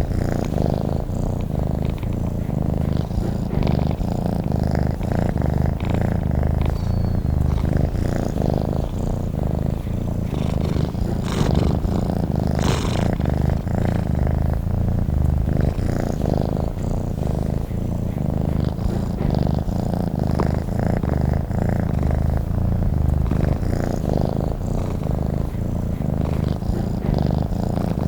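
Domestic cat purring steadily and continuously, a low, evenly pulsing rumble.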